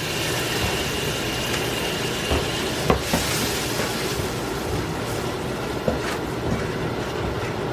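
Onions, mushrooms and a butter-and-flour roux sizzling steadily in a frying pan, with a few light clicks.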